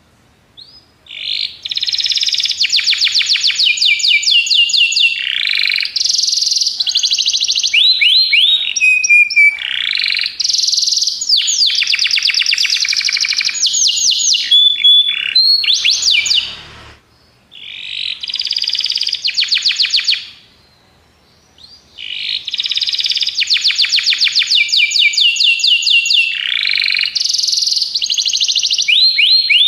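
Domestic canary singing long, loud phrases of rapid trills and rolling repeated notes. The song starts about a second in and stops briefly twice, a little past the middle and again a few seconds later.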